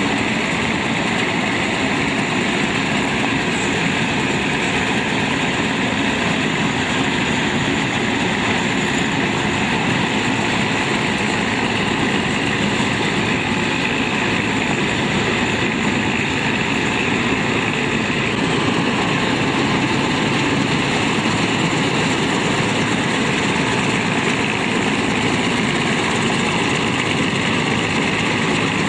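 Combine harvester's engine running steadily, with no change in pace.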